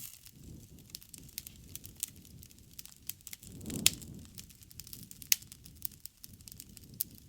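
Wood campfire crackling, with many small sharp snaps over a low, uneven rush of flame. A louder pop comes about halfway through, with the rush swelling around it, and another sharp pop follows about a second and a half later.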